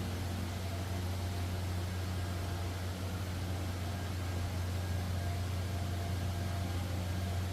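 A car running, heard as a steady low hum with road noise and no change in pitch.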